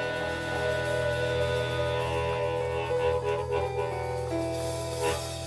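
Live blues band music: long held instrumental notes that shift pitch every second or so over a steady low drone, with no singing.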